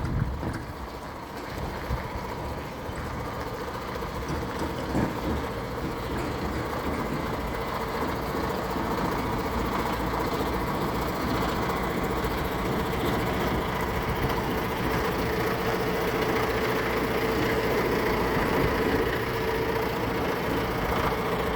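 Tractor engine running steadily at low revs while reversing a trailer, with a constant hum that grows slightly louder toward the end.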